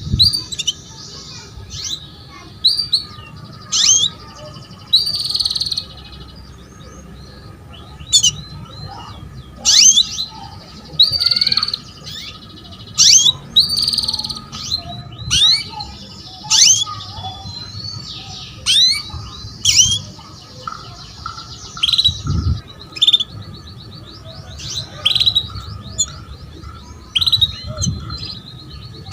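Female canary calling: a string of short, sharp chirps that sweep downward, about one every second or two, with a few brief buzzy trills mixed in. These are the calls of a hen in breeding condition drawing a male.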